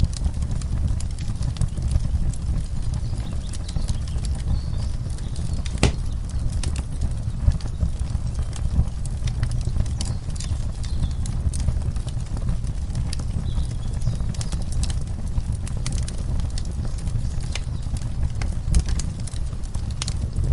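Wood fire in a fireplace crackling, with irregular small snaps and one sharper pop about six seconds in, over a steady low rumble.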